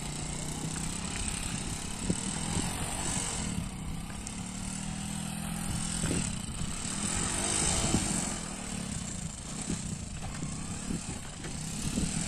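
Old motorcycle engine running under load and revving as it tows an auto-rickshaw uphill, its pitch rising and falling several times around the middle.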